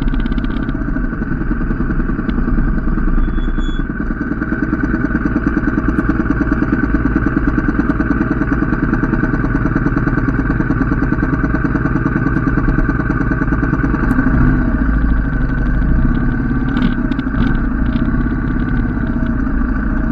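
Motorcycle engine running steadily while riding, with a low rumble throughout.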